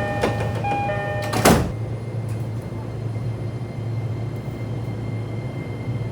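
Japanese commuter train doors closing: a repeated two-note electronic door chime, then the sliding doors shut with a single loud thud about a second and a half in, over the steady low hum of the stationary train.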